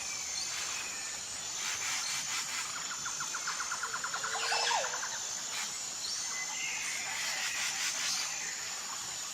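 Natural outdoor ambience: a steady, high-pitched insect drone with scattered short bird calls, and a rapid trill of about ten notes a second near the middle.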